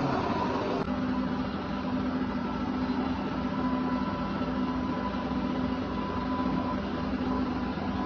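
Rice milling machinery running steadily: a continuous motor hum with a mechanical whir, its tone shifting slightly about a second in.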